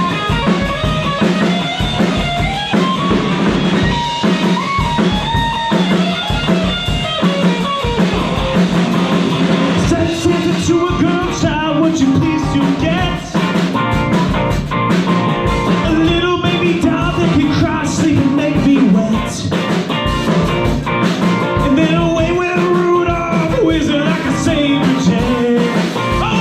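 Live rock band playing a song, with electric guitar and drum kit, amplified through a bar's PA.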